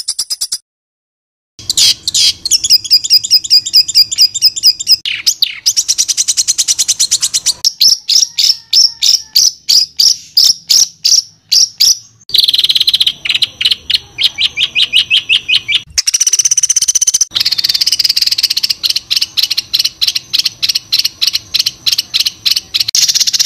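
Songbird singing rapid runs of sharp, high repeated 'tembakan' notes, a few to several notes a second, in spliced segments that change abruptly, with a brief gap of silence about a second in.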